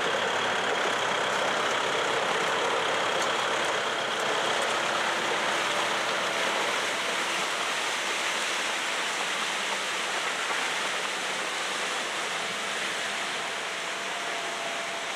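A motor vehicle engine running steadily, heard as an even, hissing noise.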